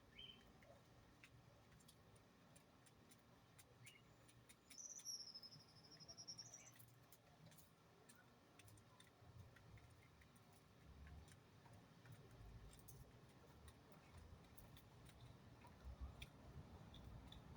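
Near silence with scattered faint ticks, and one faint high whistle from a small bird about five seconds in, dipping and rising again over about two seconds.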